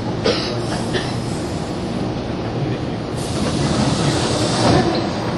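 An electric train running on the rails alongside a station platform: a steady rumble of wheels, with a louder hiss from about three seconds in.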